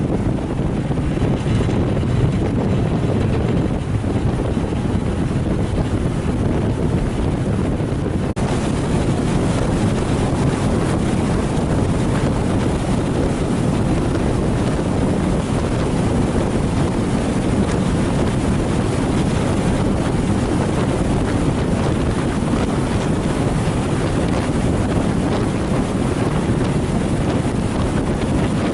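Wind buffeting the microphone over the steady low rumble of a harbour ferry under way, engine and water noise running together without a break.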